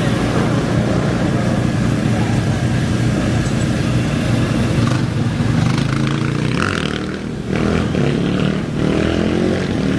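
Off-road race motorcycle engines running at the start line, one revving up and accelerating away about three quarters of the way through, rising in pitch.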